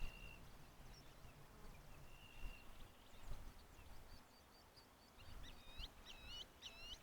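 Wild birds calling: two short, steady whistled notes, then from about five seconds in a quick run of looping, warbling notes, about two a second.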